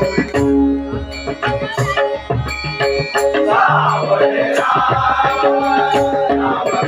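Traditional Marathi bhajan music: held harmonium notes over steady drum strokes and small hand cymbals, with a singing voice coming in about halfway through.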